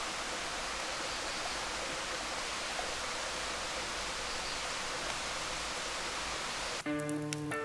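Heavy rain falling steadily, an even hiss. Music with plucked notes comes in near the end.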